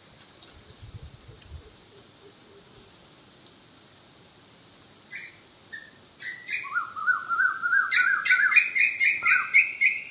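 A bird singing close by: after a few scattered chirps about five seconds in, a loud rapid run of short rising notes, about four a second, stepping up in pitch over the last few seconds. A faint steady high insect trill goes on underneath.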